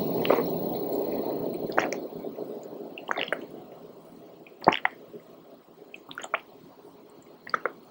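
Close-miked wet chewing and squelching mouth sounds of eating, fading after about two seconds into a few separate mouth clicks and lip smacks, the loudest near the middle.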